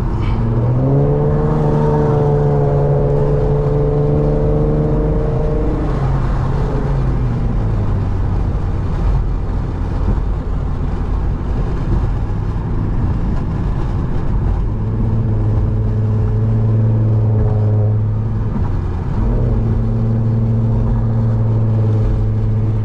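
Car engine running under way with steady road noise: its drone climbs in pitch about a second in and holds, then drops lower around seven seconds as the car eases off, with a brief dip near the end.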